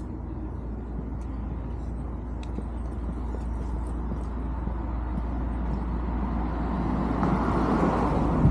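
A road vehicle drawing near, its engine and tyre noise growing steadily louder and loudest near the end, over a constant low background rumble.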